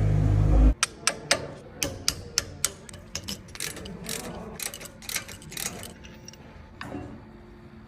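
A power tool runs briefly with a loud low hum and cuts off about a second in, followed by a run of sharp, irregular metallic clicks and clinks from hand tools at work on the brakes.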